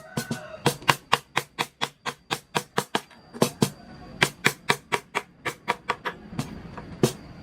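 Mallet tapping a carving chisel into wood: a quick, even run of sharp knocks, about four or five a second, with two short pauses.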